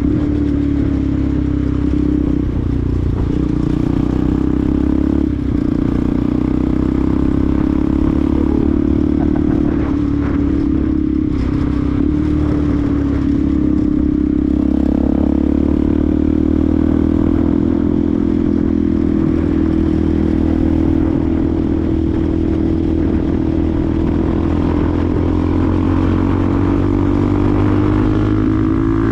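Benelli TNT 125's single-cylinder four-stroke engine running under way at a fairly steady engine speed, its pitch easing slightly and then climbing near the end.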